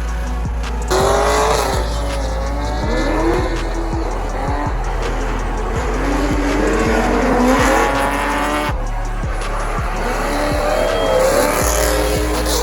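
Drift cars' engines revving in rising and falling glides with tyres squealing, mixed with background music that has a steady beat.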